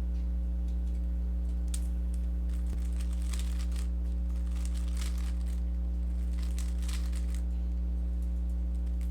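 Faint plastic clicking and scraping of a Rubik's cube being turned through an OLL algorithm, in quick clusters through the middle, over a steady low electrical hum that is the loudest sound throughout.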